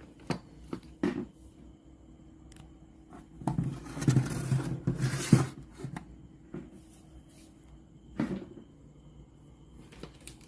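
Handling sounds from the radio cassette player being worked on: several sharp plastic clicks and knocks, with a louder stretch of rubbing and scraping in the middle.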